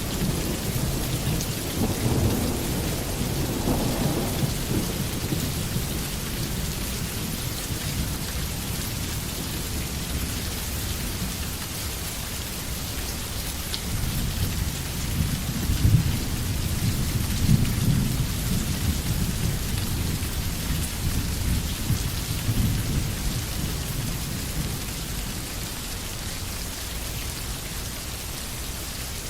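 Steady rain pouring down, with low rolls of thunder rumbling under it: one a few seconds in and a stronger one about halfway through.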